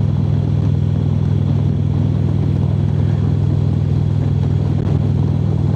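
Harley-Davidson V-twin engine running at a steady highway cruise, an even low rumble that holds without revving or shifting.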